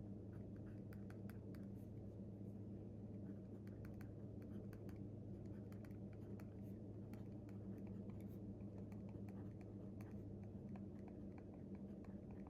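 Quick, irregular small clicks and taps of work at a desk, over a steady low hum.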